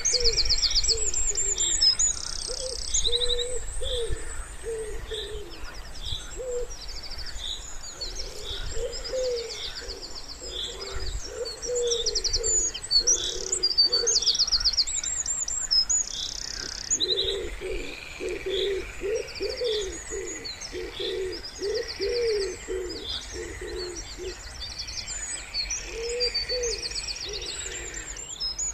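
Wood pigeon cooing in repeated phrases of soft low notes, with pauses between the phrases, while small songbirds chirp and trill high above it.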